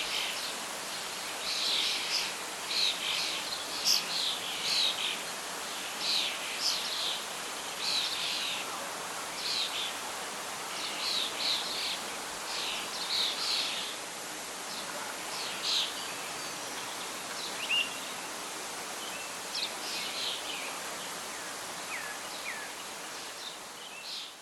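Birdsong over a steady hiss of wind and leaves: many short, high chirping calls, thinning out in the last few seconds before the sound fades out.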